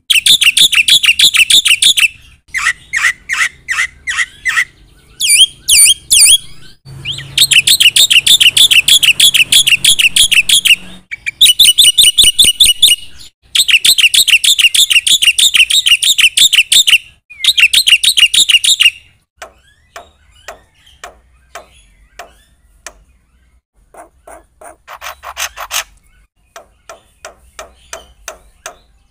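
Black-winged myna (jalak putih) singing loudly in rapid, repeated high-pitched phrases of one to four seconds with short breaks between them. In the last third the song thins to fainter, scattered short notes.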